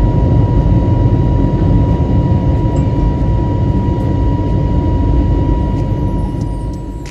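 Airbus A321neo cabin noise: a steady low rumble with a thin, constant high tone running through it, fading out near the end.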